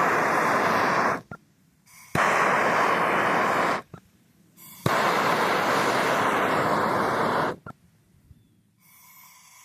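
A lighter's flame hissing in three bursts, each starting suddenly with a click and lasting one to three seconds, with short quiet gaps between them, as chips under charcoal are lit one after another.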